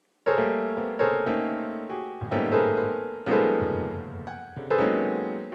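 A slow, sad tune played on a piano, with chords struck roughly once a second and left to ring and fade.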